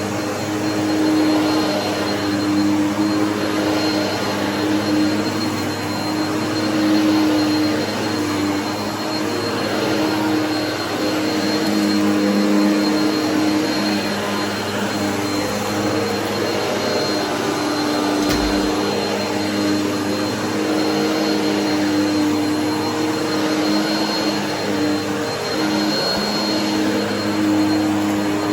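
Bissell vacuum cleaner running steadily while vacuuming, a continuous motor hum and rush of air with slight wavers in pitch and loudness.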